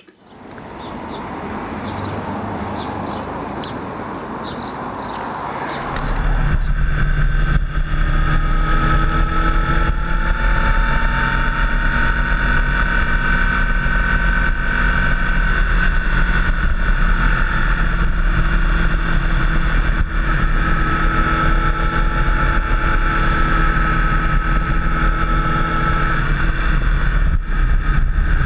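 Motorcycle engine running at a steady cruising speed over wind and road noise. The engine note comes in strongly about six seconds in, after a few seconds of rising rush.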